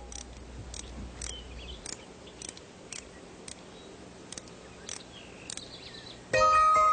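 Faint, short, high chirps and clicks, one to two a second, like a small bird's calls. Near the end, music with chiming bell-like tones starts suddenly and loudly.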